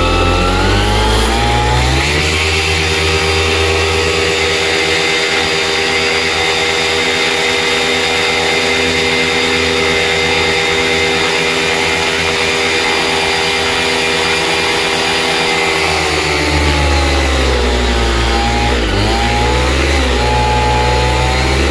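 Vittorazi Atom 80 78cc two-stroke paramotor engine with a tuned expansion-chamber exhaust, run up to high revs in the first two seconds and held there steadily, then dropping back with a wavering dip near the end. The engine does not come onto the pipe, which the owner takes as the sign that the expansion chamber is too short.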